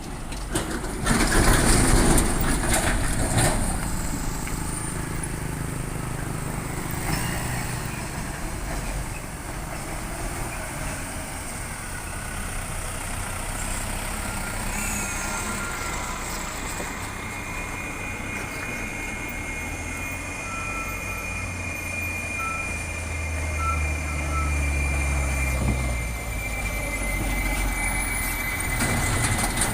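Heavy diesel truck engines running on the road, with a loud rush about a second in, then a steady low drone that rises and falls, and a thin high steady whine in the second half.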